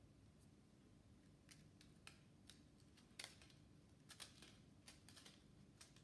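Near silence with faint, irregular light clicks and ticks, like small parts or tools being handled.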